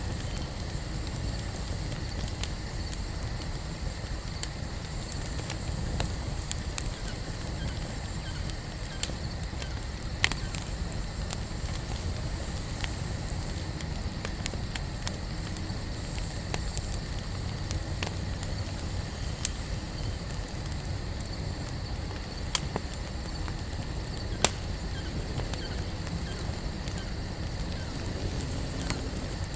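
Wood campfire burning: a steady low rush of flame with scattered crackles, and several sharper pops from the burning wood.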